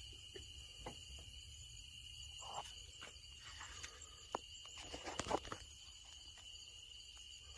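Steady high-pitched chorus of night insects, with scattered faint clicks and knocks; the loudest knock comes about five seconds in.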